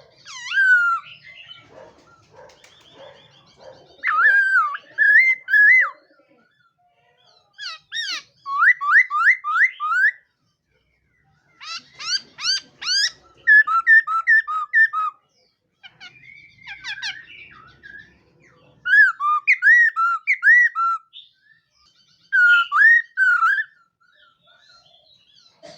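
Laughingthrush singing loud whistled phrases of quick rising and falling notes, in bursts of one to two seconds with short pauses between them, and softer lower chattering in some of the gaps.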